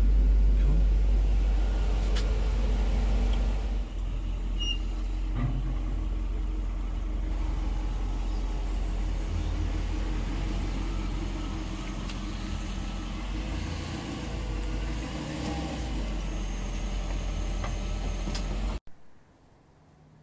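1997 Mercedes-Benz SL500's V8 engine idling steadily after a cold start, a low rumble that drops a little in level about four seconds in and cuts off suddenly near the end.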